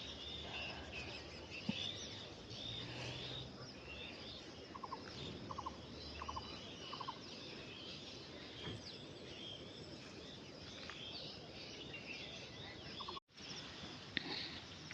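Faint outdoor birdsong: many birds chirping high and thin throughout, with a few short pulsed calls lower in pitch around the middle and again near the end.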